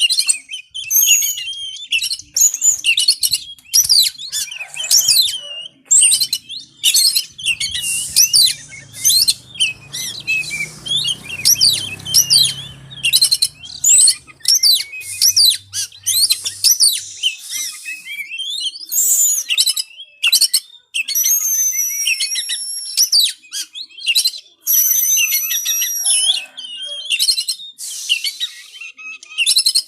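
Oriental magpie-robin singing a fast, nearly continuous run of varied chirps and whistled phrases, with a few longer, clearer held whistles in the last third: the heated song kept by bird keepers as a tutor recording.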